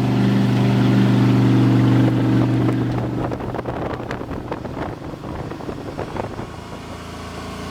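A MerCruiser 496 Mag big-block V8 runs steadily on plane through the open Corsa Captain's Call exhaust. About three seconds in its note fades sharply, leaving mostly wind and water rushing past the hull, as the boat goes over to quiet mode with the exhaust routed out through the drive.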